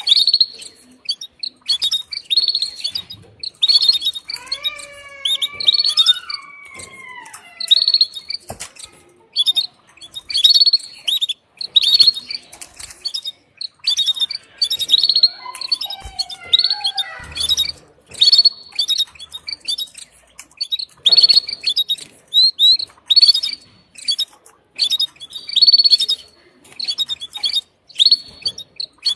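Female canary giving her repeated short, high chirping call in bursts about once a second: the call a hen makes to a male when ready to mate. Twice a lower, drawn-out sliding sound joins in.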